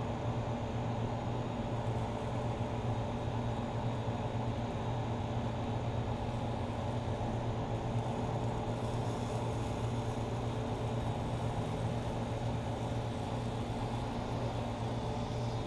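A steady mechanical hum, a low drone with a few fixed tones over a light hiss, unchanging throughout, like a nearby motor or fan running.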